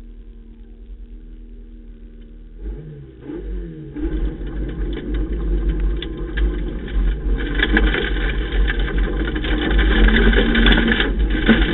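Ford Ka rally car's engine heard from inside the cabin, held at steady revs at the stage start, then revving up and pulling away about three to four seconds in. It keeps accelerating hard, getting louder, with a rough road noise under the engine.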